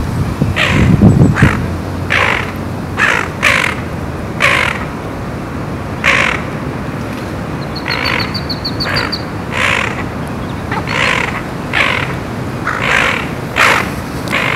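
Birds calling: a run of short, harsh, caw-like calls roughly one a second, with a few short pauses. Just after the middle, a small bird gives a rapid high trill lasting about a second.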